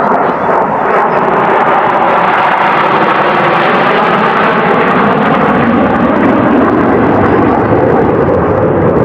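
F-16 fighter jet of the Thunderbirds passing low overhead: loud, steady jet engine noise whose pitch bands sweep as it goes by.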